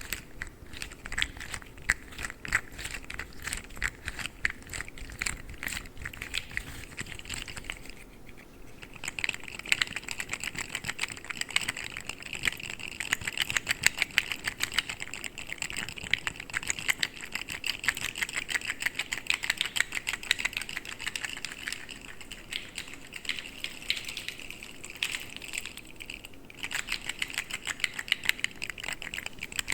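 Articulated plastic fidget slug toys handled and flexed: a dense stream of quick small plastic clicks and clatters, pausing briefly about 8 seconds in and again near the end.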